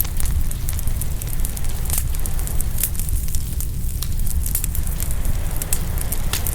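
Open wood fire crackling, with many sharp irregular pops over a steady low rumble.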